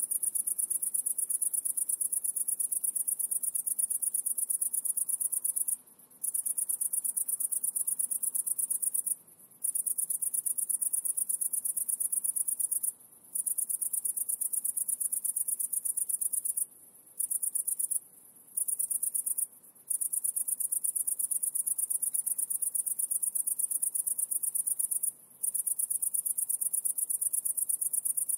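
A trilling insect giving a continuous high-pitched rapid trill that breaks off briefly seven times.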